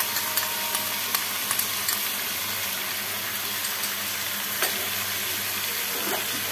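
Potato and cauliflower pieces sizzling steadily in hot mustard oil in a kadai, with a light knock about four and a half seconds in.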